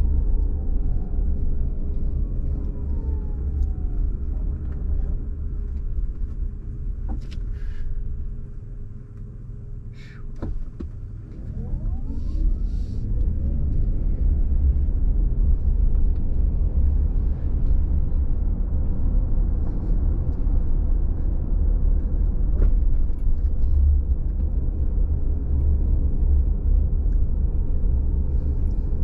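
Car driving on a rain-wet road, heard from inside: a steady low road and tyre rumble that eases off about eight seconds in, as the car slows, and builds again from about eleven seconds. A few short clicks come during the quieter stretch.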